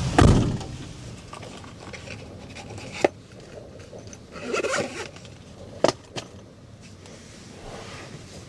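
A heavy thump as the wind noise drops away, then a few sharp clicks and knocks and a short burst of rustling in a small enclosed space.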